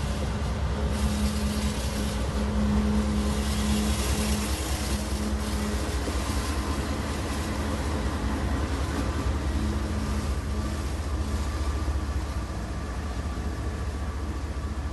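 Freight auto train running past: a steady low rumble, with a hum that is strongest over the first few seconds and fades out around the middle.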